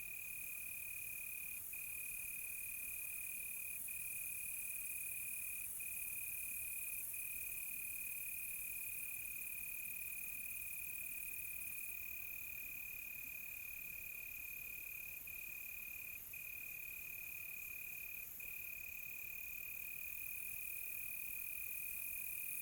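Crickets chirping at night: one steady, high, continuous trill that drops out for an instant only a few times, over a fainter, higher insect hiss.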